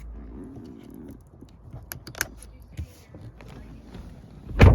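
Milwaukee cordless drill briefly driving a screw into a door trim panel, then small sharp clicks of screws and tools being handled, and a loud knock near the end.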